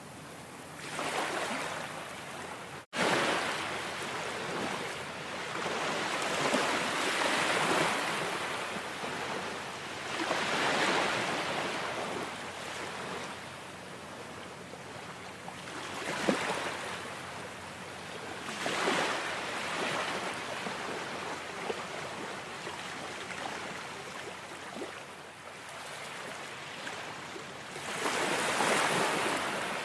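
Ocean waves washing in, the surf swelling and falling back every few seconds. The sound cuts out for an instant about three seconds in.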